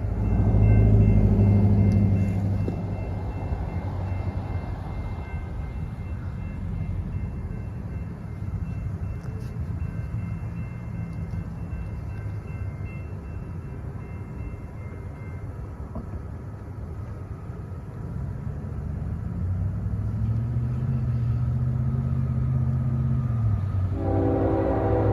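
Norfolk Southern freight train led by a diesel locomotive running past with a steady low engine rumble, loudest at first and swelling again later. A chord of horn tones starts near the end.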